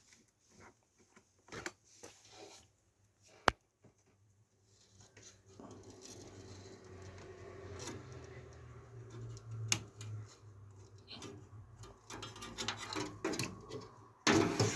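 PC power-supply cables and plastic connectors being handled and plugged in: rustling and scattered clicks, with one sharp click about three and a half seconds in. A low steady hum sets in around halfway, and the handling noise grows louder near the end.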